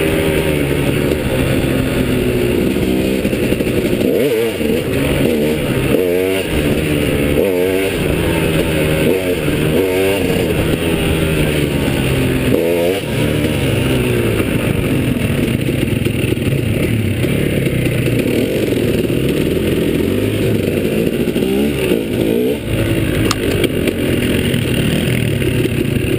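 Off-road motorcycle engine, heard from the rider's own bike, revving up and falling back over and over as the rider works the throttle and gears along a trail. It settles to a steadier run about halfway through, with a sharp click a few seconds before the end.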